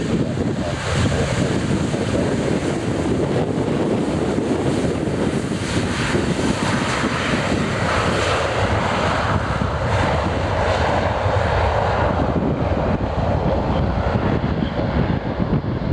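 A Boeing 757's two Rolls-Royce RB211-535E4B turbofans at takeoff power, a loud, steady roar, with the high end fading over the last few seconds as the jet moves away.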